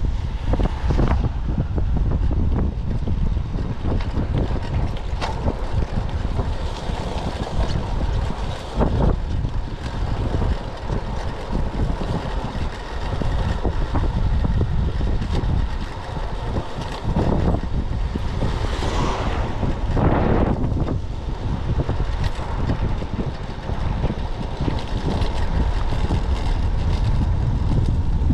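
Typhoon wind buffeting the microphone in heavy, irregular gusts, a deep rumbling roar of wind noise, with a brief swish that rises and falls about two-thirds of the way in.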